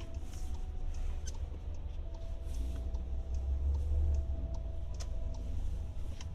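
Car cabin rumble from a car on the move: a steady low drone with a few faint clicks.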